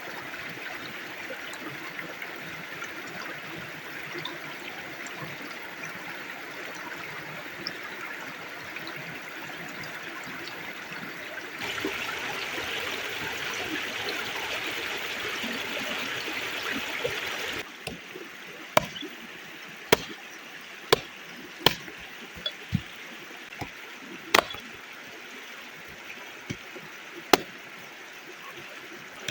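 Flowing river water, a steady rushing hiss that grows louder for about six seconds partway through. After that the water is quieter, and a dozen sharp, loud snaps or clicks come at uneven intervals.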